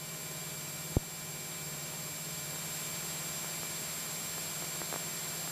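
Steady hiss of a light aircraft's cockpit intercom audio feed, with a faint low hum underneath and a single sharp click about a second in.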